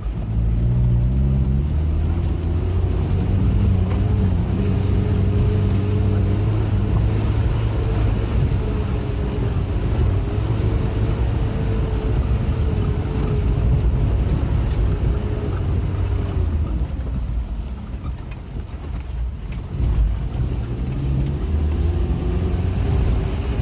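Vehicle engine running under load. Its pitch rises just after the start, holds, eases off about two-thirds of the way through, then picks up again near the end, with a thin high whine that comes and goes.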